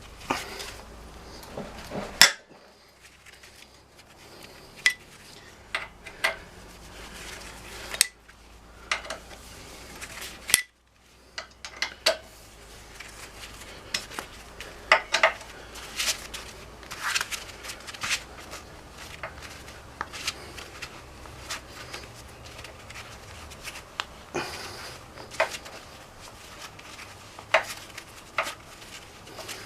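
Irregular sharp metallic clinks and clanks of hand tools and bolts on a motorcycle frame and engine as the engine is unbolted for removal, some strikes much louder than others.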